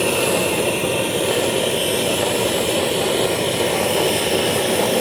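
Gas flame roaring with a steady, loud hiss, as the stall cooks an order.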